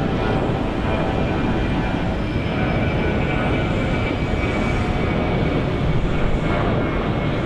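Jet airliner's engines running loud and steady, a roar of noise with a faint steady whine through it.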